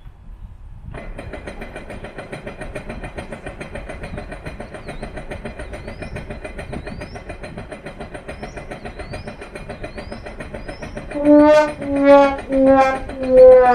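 Jet ski engine running with a fast, even pulsing, just started after a jump start from a battery charger. Near the end it is blipped loudly four times in quick succession.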